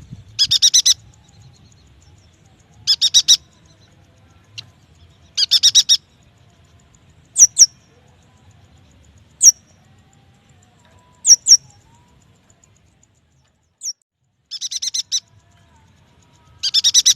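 Yuhina song: short, rapid chattering trills alternating with single sharp, high notes that slur downward, with gaps of one to two seconds between phrases.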